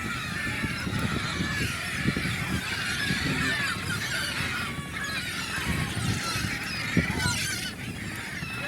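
A flock of seagulls calling all at once, many short cries overlapping without a break, over a low rumbling background noise.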